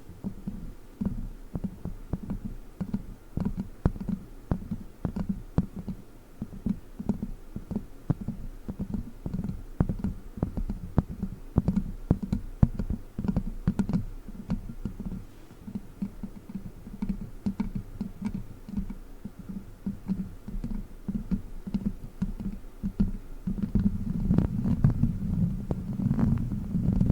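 ASMR witch-finger trigger: a fake witch finger worked rapidly close against the microphone, giving a dense run of small clicks and taps over a low, rubbing rumble.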